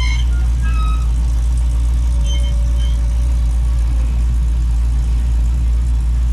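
Car engine idling with a steady low rumble, with a few faint short high-pitched chirps near the start and about two seconds in.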